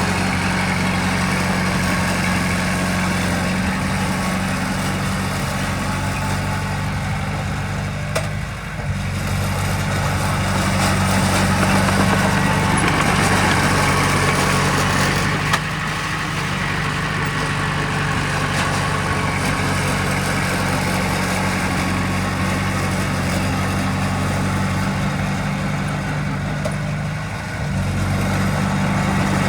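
Heavy earthmoving machine's diesel engine running steadily, with short dips in level about a third of the way in and again near the end.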